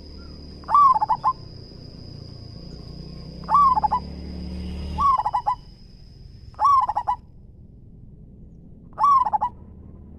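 Zebra dove (perkutut) cooing five times in its loud song. Each phrase is a strong first note followed by a quick rattle of short notes.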